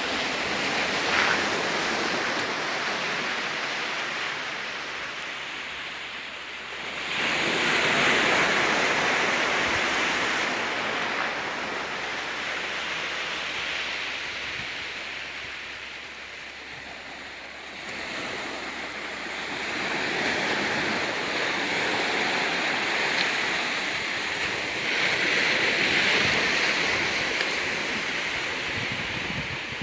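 Ocean waves washing onto a rocky beach: a steady rush of surf that swells and fades, surging about seven seconds in and twice more in the second half.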